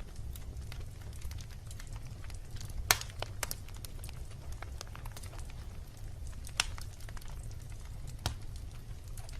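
Wood campfire burning with irregular sharp crackles and pops over a steady low rumble; the loudest pops come about three seconds in, again around six and a half seconds, and near the end.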